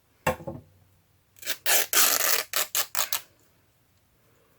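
Scissors cutting through cotton fabric, a run of quick rasping snips, after a single knock on the work table.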